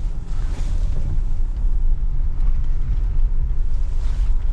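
Car being driven, a steady low rumble of engine and road noise with no scraping from the brakes: the small rock that had been stuck in the brake has been removed and the noise is gone.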